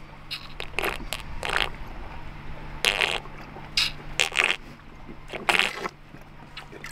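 Irregular crunching and scraping noises, a dozen or so short bursts of varying length, over a faint steady low hum.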